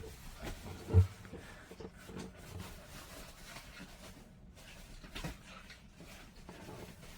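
A dog playing fetch with a stick indoors: scattered light knocks and rustling, with one heavy, low thump about a second in and a sharper click about five seconds in.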